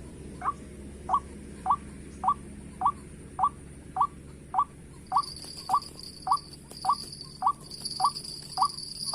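White-breasted waterhen call: one short dropping note repeated evenly, nearly two a second. A high steady buzz joins about five seconds in.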